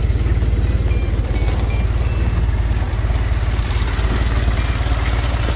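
A 1927 car's original engine idling steadily, with a rapid even putter.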